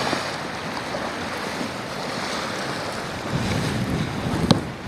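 Lake Michigan waves washing onto the beach, a steady rush, with wind buffeting the microphone in a stronger gust late on. A single sharp click sounds near the end.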